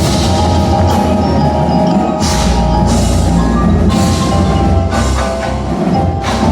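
Winter percussion ensemble playing: marimba and other mallet keyboards sound held, ringing notes over drums. A deep bass comes in about two seconds in, and several loud full-band hits land through the passage.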